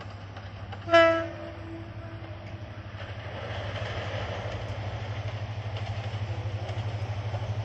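Diesel locomotive giving one short horn blast about a second in, then its engine rumble and the train's running noise growing steadily louder as it approaches.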